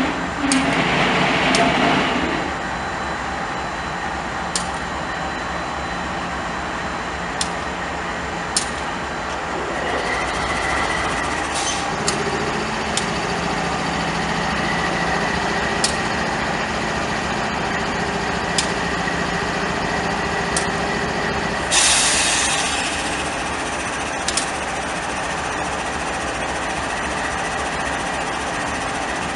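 Train running by with a steady rumble and sharp clicks every second or few, a louder rush of noise about 22 seconds in.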